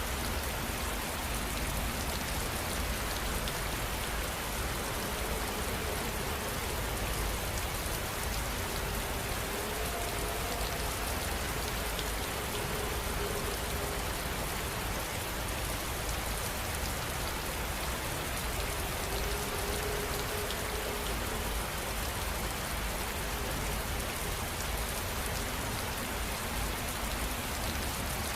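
Steady rain: an even, unbroken hiss of drops falling on a surface. A faint humming tone rises out of it twice near the middle.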